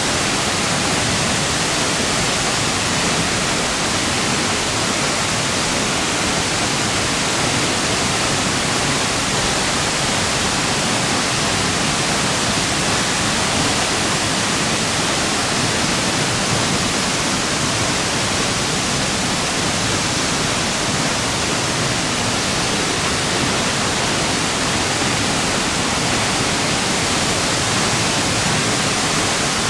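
Waterfall heard close up at its plunge pool: a loud, steady rush of falling water and spray.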